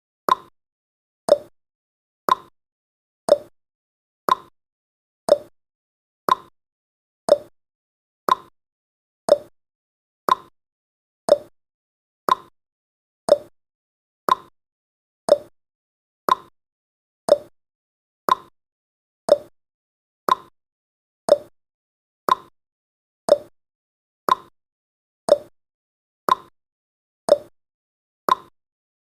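Countdown timer's tick sound effect: one short, sharp tick every second, evenly spaced, with silence between ticks.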